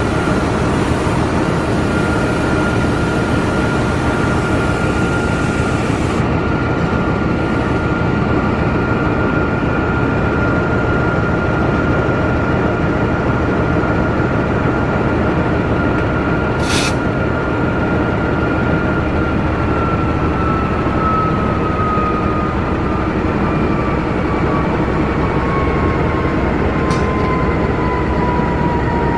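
Sancaka passenger train running at about 110 km/h: a steady rush of wheels on rails with a high whine that slowly drops in pitch over the last ten seconds, and a brief click about 17 seconds in.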